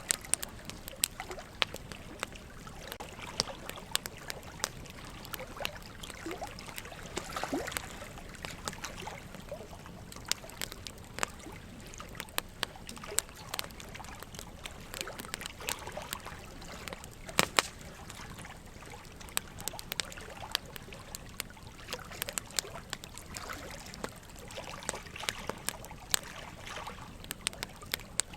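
Wood fire crackling with irregular sharp pops and snaps, a few louder ones, over a steady trickle of running water.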